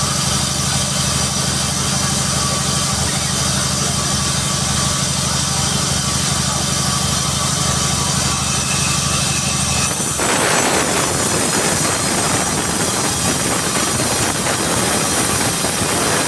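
A sawmill's engine-driven saw running steadily; about ten seconds in, a loud hissing noise starts over the engine as the blade cuts into a jackfruit log.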